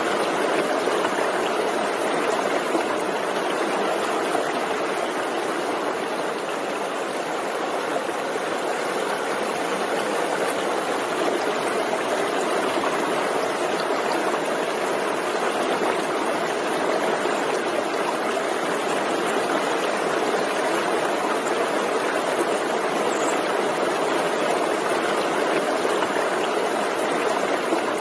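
Forest stream running, a steady, even rush of flowing water.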